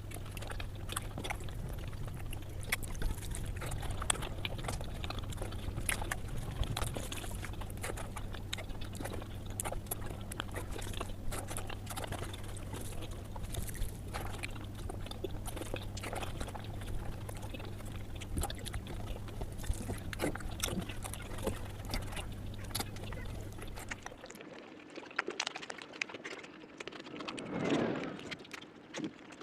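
Close-miked eating sounds: irregular wet chewing, smacking and crackling clicks of a person eating curry and rice, over a steady low hum that cuts off about 24 seconds in.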